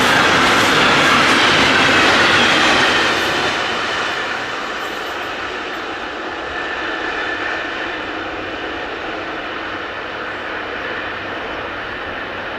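A train passing close by on the track, its wheels running over the rails, loud for about the first three seconds and then fading as it moves away.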